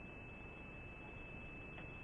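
A steady, high-pitched electronic tone holding one pitch over a faint hiss, with a faint tick near the end.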